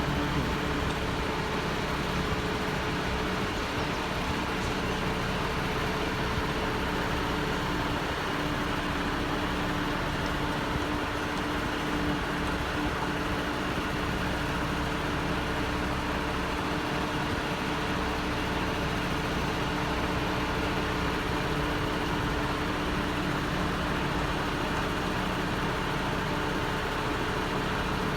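Heavy vehicle's engine running steadily at a constant speed, a continuous drone with a few held tones and no change in level.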